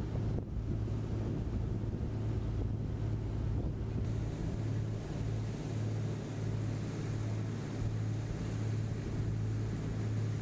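Engine of the sightseeing boat Wonder Naruto droning steadily at a low pitch while underway. Wind buffets the microphone and water rushes past, and the rushing hiss grows brighter about four seconds in.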